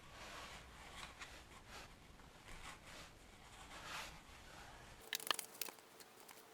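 Rustling and crinkling handling noises, then a quick cluster of sharp clicks about five seconds in.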